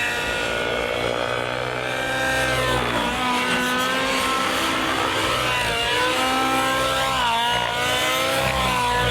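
Radio-controlled model aircraft engine in flight, running loud and steady, its pitch swooping down and back up twice as it passes and changes throttle.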